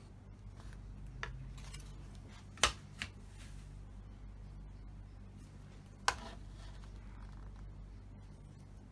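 A few short, sharp clicks, the loudest about two and a half seconds and six seconds in, over a low steady hum.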